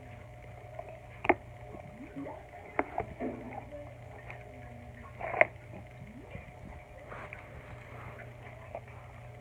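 A few sharp taps or knocks, three of them clear, over a steady low hum, with faint short vocal sounds in between.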